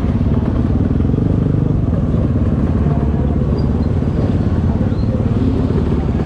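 Motocross motorcycle engines running steadily.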